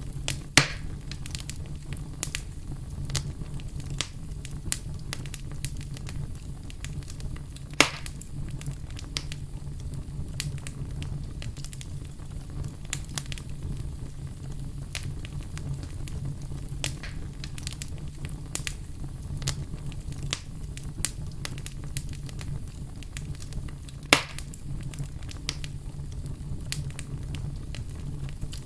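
Wood fire burning with a steady low rumble and frequent small crackles, with three sharper pops standing out, about half a second in, near 8 seconds, and near 24 seconds.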